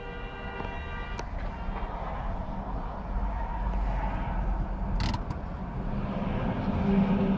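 Vehicle driving with steady road and engine noise, growing louder. A steady multi-tone sound cuts off with a click about a second in, and a short sharp crack comes about five seconds in.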